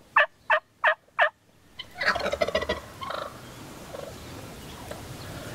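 Wild turkeys calling: a run of about six evenly spaced yelp notes, roughly three a second, ending a little over a second in. A gobble follows about two seconds in.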